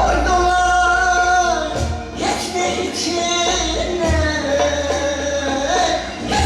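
Live Turkish folk song (türkü) with singing over instrumental accompaniment: long held, ornamented sung notes above a steady low bass.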